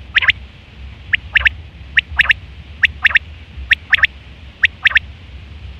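Quail calling: six short phrases of two or three sharp, quick notes each, repeated about once a second, over a steady low hum.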